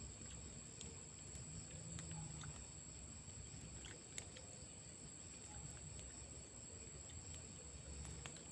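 Faint steady high drone of night insects, with scattered small clicks and light crackles.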